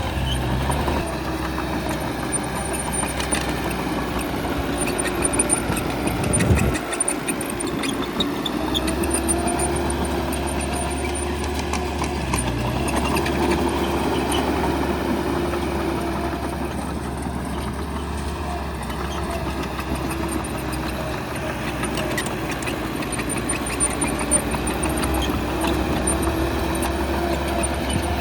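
Bulldozer's diesel engine running under changing load, its pitch rising and falling, with scattered metallic clanks.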